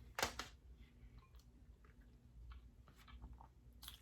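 Quiet eating sounds from a king crab leg meal: a sharp click about a quarter second in, then scattered faint clicks and small mouth sounds.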